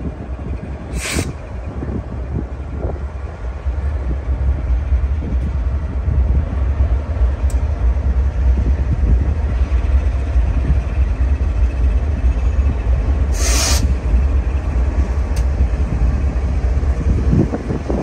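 BNSF diesel-electric locomotives pulling a coal train past: a steady, heavy low rumble of engines and wheels on the rails that grows louder a few seconds in as the locomotives come abreast. Two short hisses stand out, one about a second in and another late on.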